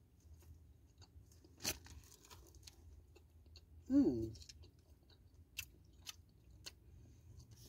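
A person chewing a mouthful of bacon chicken croissant sandwich, with soft mouth clicks and a few sharper crunches. About four seconds in, a short closed-lip vocal sound falls in pitch.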